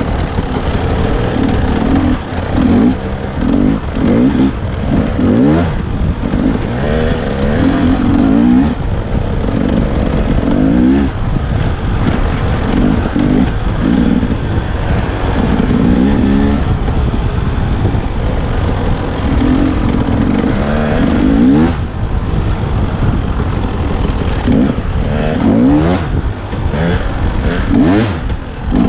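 Dirt bike engine being ridden, revving up and down over and over, its pitch climbing and dropping every second or two.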